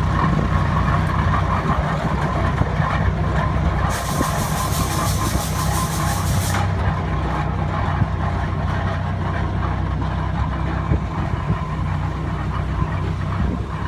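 Old tractor engines running steadily as the tractors pass, a low, even engine note. A hiss joins in for about two and a half seconds, starting about four seconds in.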